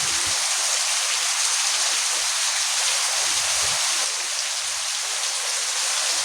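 Heavy monsoon rain falling steadily, a dense even hiss that dips slightly about four seconds in.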